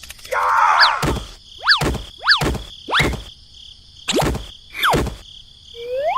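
A series of about six sharp knocks, each paired with a quick whistling pitch sweep. The last sweep, near the end, rises.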